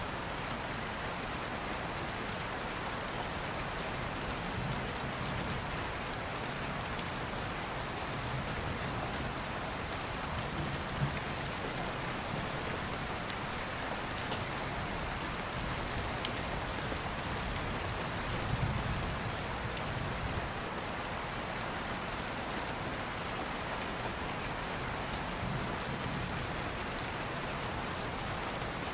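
Steady rain falling, with a few short sharp pops here and there and a soft low rumble that swells a few times.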